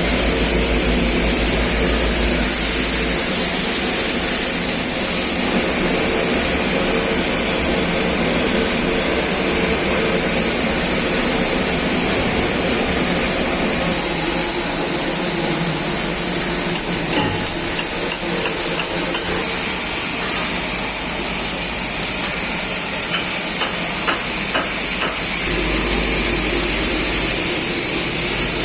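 Gas-fired mini stack aluminium melting furnace running under power: a loud, steady rush of burner and blower noise, with a few short clicks and knocks in the second half.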